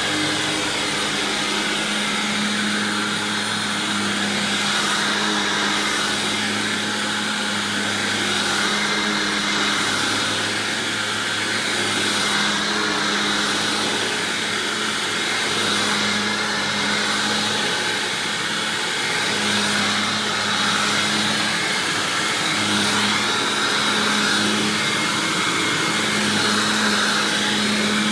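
Hoover WindTunnel self-propelled upright vacuum running on a swapped-in Maytag-era WindTunnel motor, with the self-propel drive engaged. It is a steady motor and airflow hum whose low drone wavers every few seconds.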